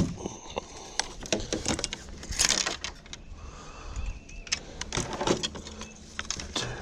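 Irregular clicking, knocking and rattling, with a brief rushing noise about two and a half seconds in.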